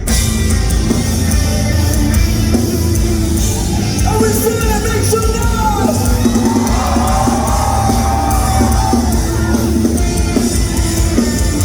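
Rock band playing live and loud: heavy drums and distorted guitars, with held, slightly bending melodic lines about four to nine seconds in.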